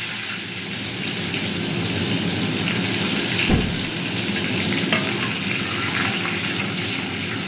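Chopped onions frying in hot oil in a steel kadai, a steady sizzle as they are stirred with a spatula. A single knock about three and a half seconds in.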